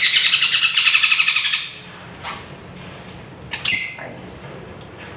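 Young parrot giving a rapid, chattering run of begging calls for almost two seconds, then a short call and one sharp squawk a little past the middle.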